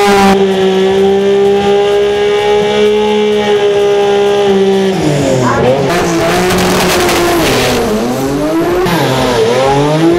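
Drag-racing car engine held at a steady high rev for about five seconds, then the revs swing down and up several times.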